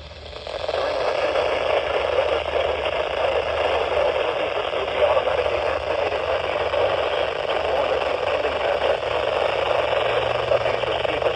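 Radio static: a steady hiss from a weather radio receiver while the NOAA Weather Radio announcement is interrupted, with no voice coming through.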